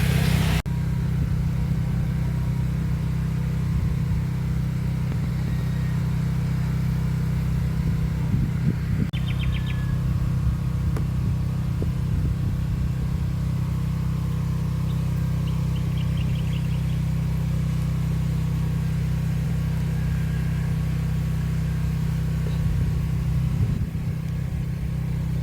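An engine running steadily at an even speed, making a low drone. A couple of short bird chirps are heard about a third of the way in and again just past the middle.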